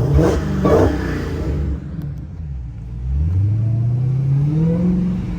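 Car engine revving: a sudden loud burst at the start, then from about the middle the engine note rises steadily in pitch as the car accelerates.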